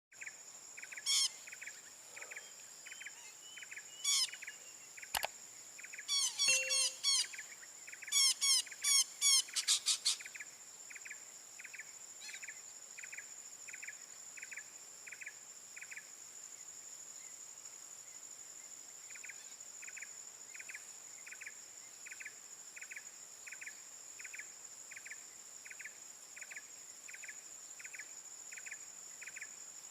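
Harsh, repeated bird calls in several quick bursts during the first ten seconds, over a steady high insect drone. An insect's regular chirping, about two chirps a second, runs on throughout and pauses briefly past the middle.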